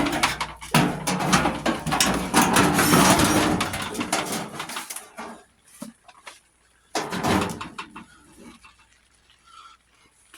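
Busy clattering and knocking of tools and metal parts while an old lawn tractor is taken apart, with some squeaking among it, for the first four seconds or so. Then mostly quiet, with scattered knocks and one louder clatter about seven seconds in.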